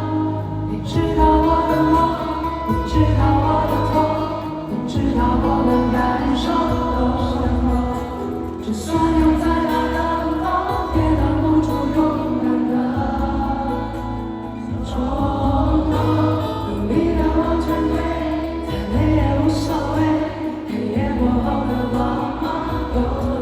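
Live pop song playing loud through a stadium sound system, with many voices singing together over a heavy bass.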